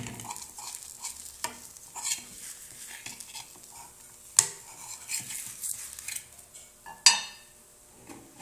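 A utensil scraping and tapping against a frying pan while crepe batter cooks in oil, with a faint sizzle. Two sharp knocks stand out, one about four and a half seconds in and one near the end that rings briefly.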